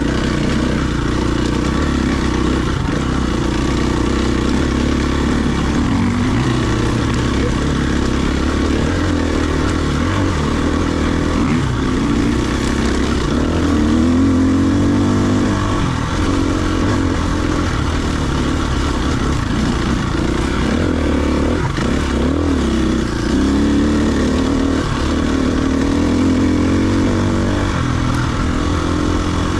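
Enduro dirt bike engine running under way, its pitch rising and falling repeatedly as the throttle is opened and closed.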